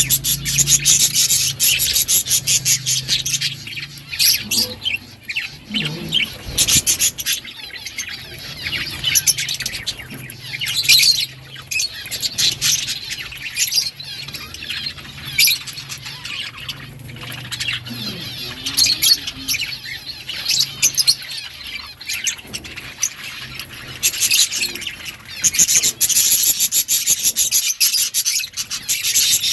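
A group of budgerigars chirping and chattering in rapid, continuous bursts, busiest near the start and again near the end.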